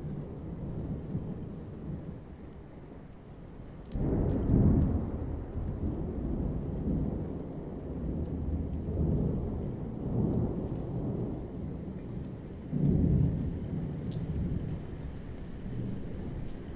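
Thunder rumbling over steady rain. A sudden loud thunderclap breaks in about four seconds in and another about thirteen seconds in, each rolling on in long low swells, with faint pattering of raindrops above.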